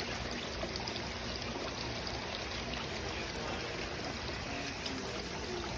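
Running water from a garden water fountain: a steady, even trickling and splashing.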